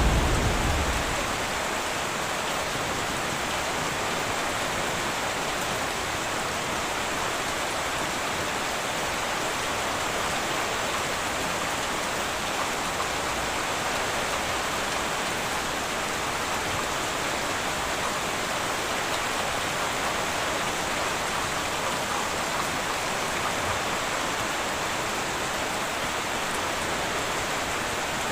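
Heavy rain falling steadily on a tin roof. A low thunder rumble dies away in the first second or so.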